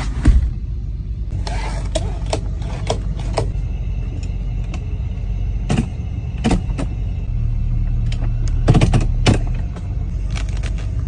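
A car engine running steadily, with a scattering of sharp clicks and knocks over it.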